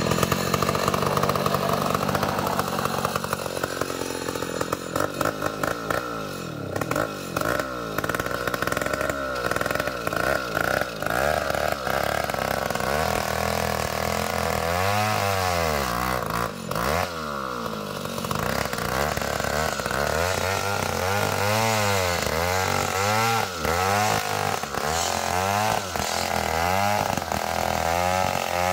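Two-stroke chainsaw running while cutting an ulin (ironwood) log. About halfway in, its engine pitch starts rising and falling repeatedly as the chain is worked through the wood.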